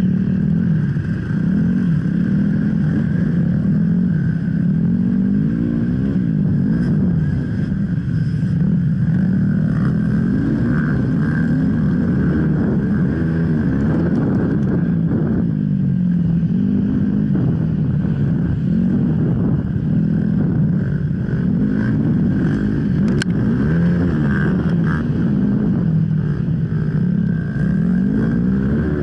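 Off-road enduro motorcycle engine running under load, its revs rising and falling again and again as the throttle is worked over uneven trail.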